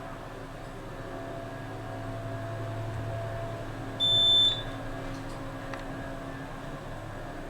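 Elevator running with a steady low hum, and a single short electronic beep from the elevator about four seconds in.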